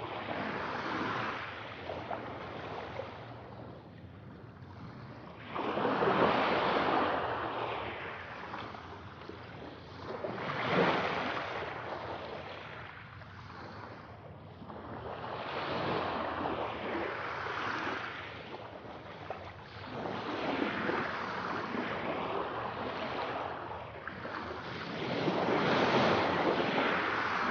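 Ocean waves breaking and washing onto the shore, surging and receding about every four to five seconds, with one sharper crash in the middle.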